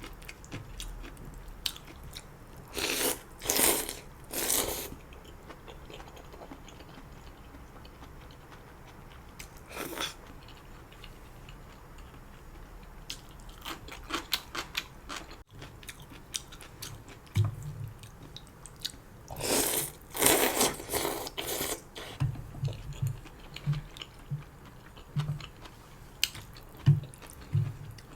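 Close-up eating sounds from a mukbang of janchi guksu noodles: chewing, biting and crunching, with small clicks throughout. There are two clusters of louder noisy bursts, a few seconds in and again about two-thirds of the way through.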